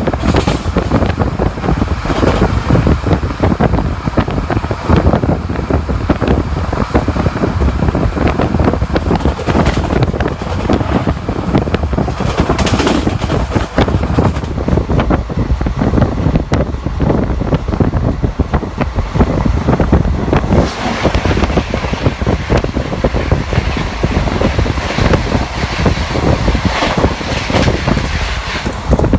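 Wind buffeting the microphone over the steady rumble and clatter of a passenger train's ICF coach running on the track.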